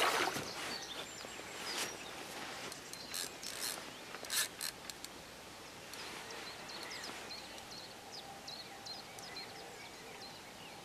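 Small birds chirping in short, quick, high notes, thickest in the second half, over quiet lakeside outdoor noise. There are a few short clicks and rattles in the first five seconds, from the angler handling the rod and reel while playing a fish.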